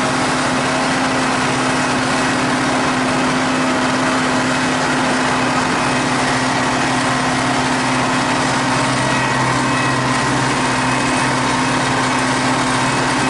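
T-150K tractor's diesel engine running steadily in top gear range, a constant loud drone with no change in pitch.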